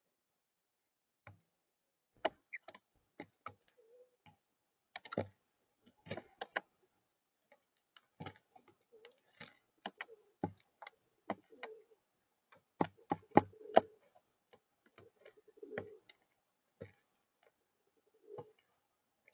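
Two blue jays making irregular sharp clicks and taps, with soft low calls in between that come more often in the second half.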